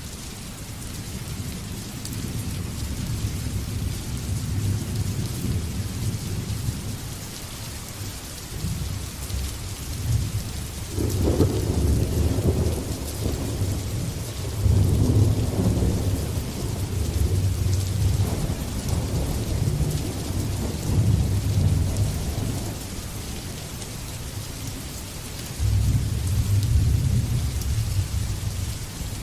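Steady rain with rolling thunder: a long low rumble that builds about a third of the way in and rolls on in waves for some ten seconds, dies down, then comes back in a shorter rumble near the end.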